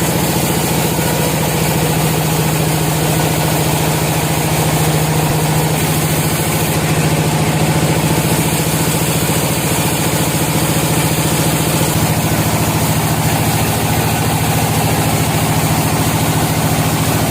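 Sawmill engine running steadily, a low even drone that shifts slightly about twelve seconds in.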